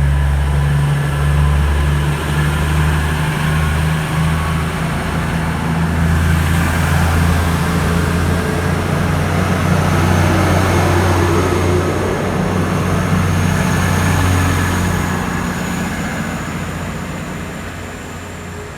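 Class 222 Meridian diesel multiple unit's underfloor diesel engines running loudly and steadily, then fading over the last few seconds as the train draws away.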